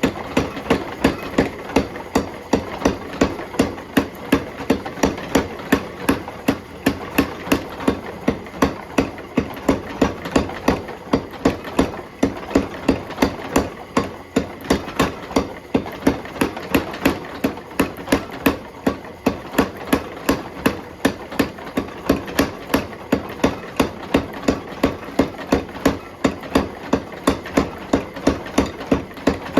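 Steel being forged under a hammer: sharp metallic blows on the hot bar, evenly paced at about three a second without a break, over a steady mechanical hum.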